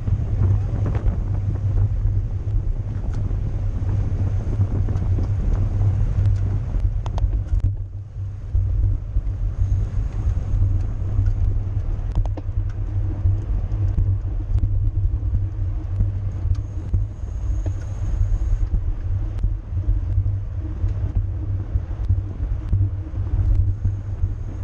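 Steady low rumble of wind and road noise on a camera riding along with a racing bicycle at speed, easing briefly about eight seconds in.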